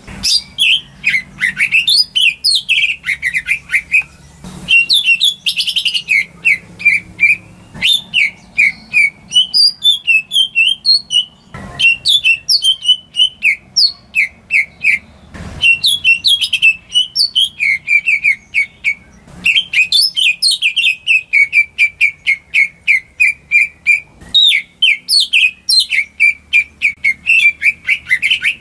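Kept green leafbird (cucak ijo) singing a long, fast, varied song of rapid chirps, slurred whistles and trills, with a few short pauses.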